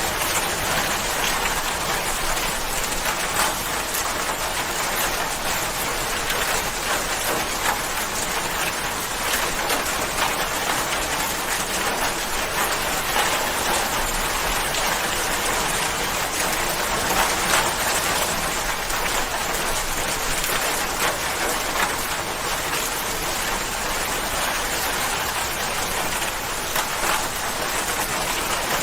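Steady rain falling, an even hiss of many drops with small individual ticks of drops hitting a surface.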